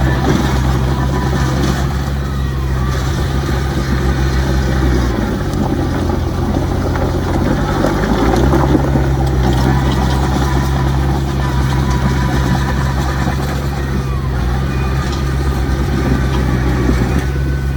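Heavy diesel engine of earthmoving machinery running loud and steady; its pitch drops about five seconds in and climbs back about three seconds later.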